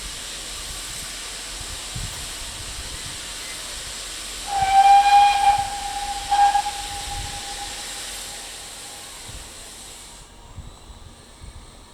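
Steady hiss of escaping steam, then a steam whistle about four and a half seconds in: one long blast and a short second blast on a single pitch, the loudest sound, trailing off. The steam hiss cuts off suddenly near the end.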